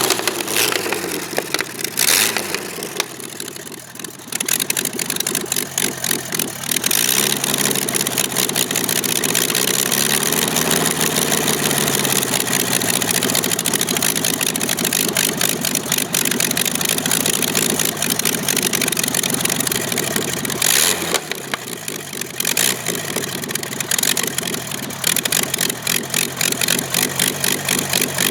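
Avia M 137 inverted inline six-cylinder air-cooled aircraft engine running with an even, rapid beat. Its speed drops and picks up again a few seconds in, swells up and back down a little later, and dips once more near the end.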